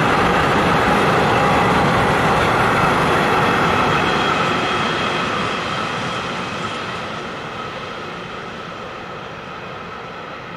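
Train running past on the main line, wheels on rail making a loud rushing noise with a steady high tone in it, fading steadily as it moves away from about four seconds in.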